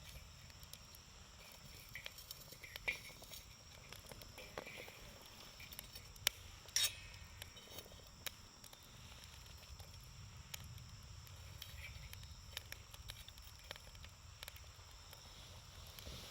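Wood campfire burning with a low crackle and scattered sharp pops, the loudest a quick cluster about seven seconds in.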